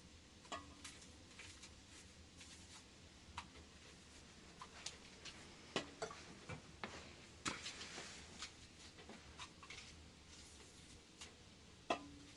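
Faint, irregular small clicks and light knocks over low room tone, a few of them louder: about six seconds in, near seven and a half seconds, and a sharp one near the end.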